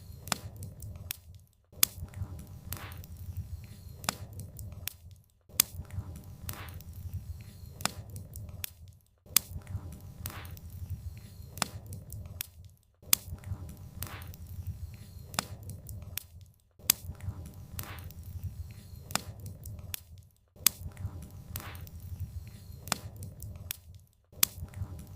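Burning firewood crackling and popping in sharp snaps over a steady low rumble of flames. The sound cuts out briefly every few seconds in an even pattern.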